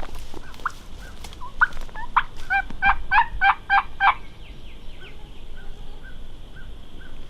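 Wild turkey gobbler gobbling close by: one fast rattling gobble starting about one and a half seconds in and lasting about two and a half seconds, with a few soft short calls before and after it.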